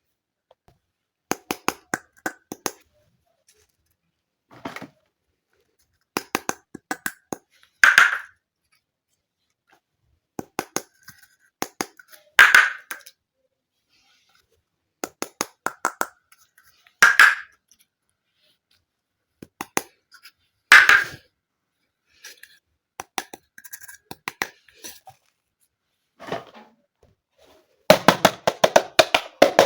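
Small plastic toy kitchen pieces handled and unpacked: groups of sharp clicks and taps, most ending in a short scrape or rasp about every four to five seconds, with a dense run of clicks near the end.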